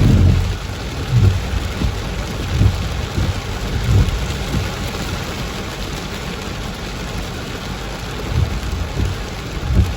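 Heavy tropical rain pouring down in a steady dense hiss, with low rumbles coming and going every second or two.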